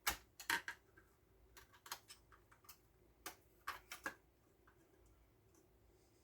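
A run of irregular light clicks and taps, about a dozen over four seconds, then near quiet: small wiring parts and tools being handled.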